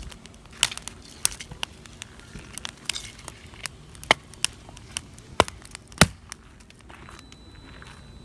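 Firewood crackling and popping in a campfire: sharp, irregular pops, the loudest about six seconds in.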